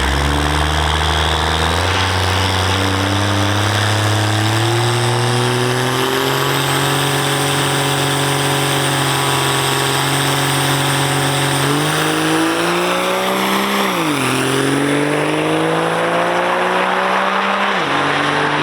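Vehicle engine accelerating hard through several gear changes on a drag-strip pass. Its pitch rises in steps, dips sharply about two-thirds of the way through, then falls away near the end.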